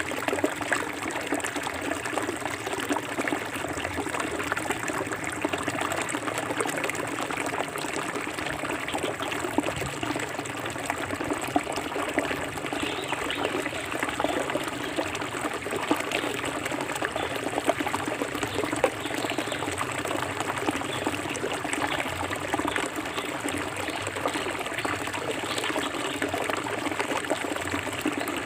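Forest river water flowing steadily over stones, a continuous splashing and trickling.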